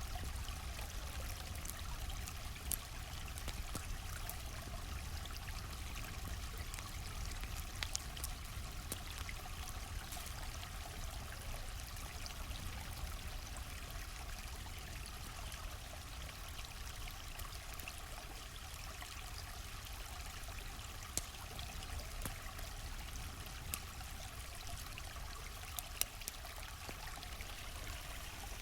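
A stream flowing steadily, with a low rumble beneath the rush of water, and now and then a sharp pop or crackle from a campfire.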